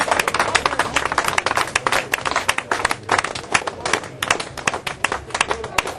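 A small crowd clapping, a quick, irregular patter of many separate hand claps.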